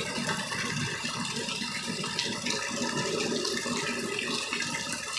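Rain coming down hard, a steady, even splashing hiss of water.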